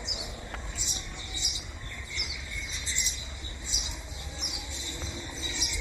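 Small birds chirping: short, high calls repeated every half second or so, over a low steady rumble.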